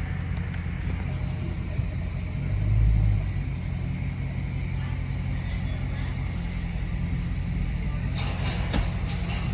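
Dodge Challenger Scat Pack's 392 HEMI V8 running at low speed with a steady deep rumble, swelling briefly about three seconds in. A few sharp clicks near the end.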